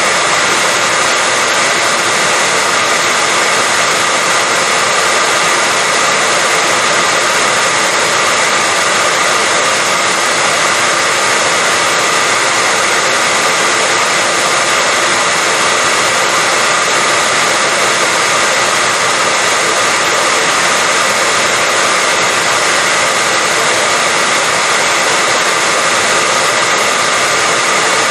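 Hair dryer running continuously at a steady setting: an even, unchanging rush of blown air with a faint steady whine on top.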